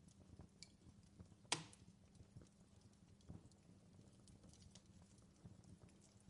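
Fireplace fire crackling softly, with scattered small pops and one sharp, louder crack about a second and a half in.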